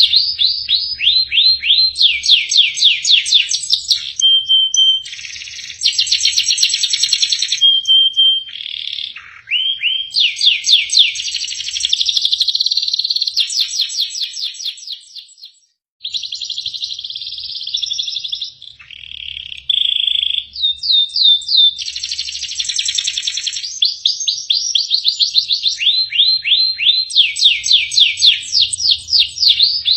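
Domestic canary singing a long, varied song: fast repeated trill phrases, rolls and buzzy notes strung together almost without pause, breaking off for a moment about halfway through.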